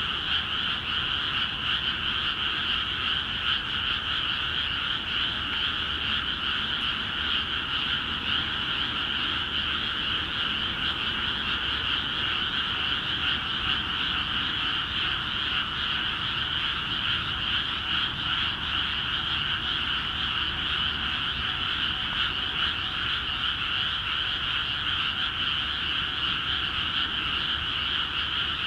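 A dense chorus of many frogs calling at once in a newly flooded rice paddy, an unbroken wall of overlapping calls at an even level: a spring breeding chorus.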